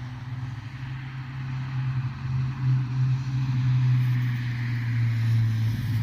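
A vehicle engine running as a low, steady drone that grows louder about two seconds in.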